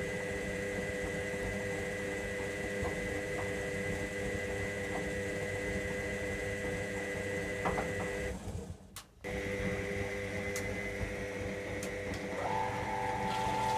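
Electra AWF683 washing machine's motor turning the drum on a boilwash, a steady mechanical whine that cuts out for about a second around nine seconds in and then starts again. A higher steady tone joins near the end.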